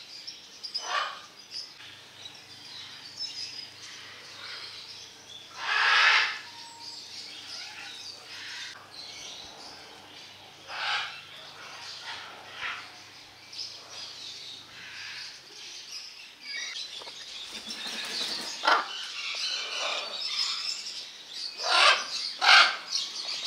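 Birds calling: a series of short, noisy calls at irregular intervals, the loudest about six seconds in and several more close together near the end.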